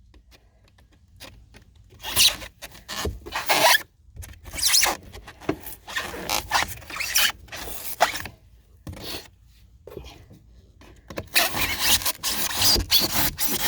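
Old pour-in flotation foam being scraped and pried out of a boat hull: irregular scraping and rubbing strokes, starting about two seconds in and turning dense and continuous near the end.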